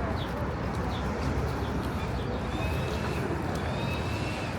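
City street ambience: a steady hum of traffic and street noise, with a few faint short high chirps and a faint thin whine.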